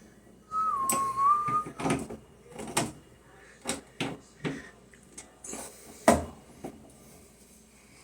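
A short whistled note lasting about a second, dipping slightly and rising again. It is followed by a series of irregular clicks and knocks of things being handled.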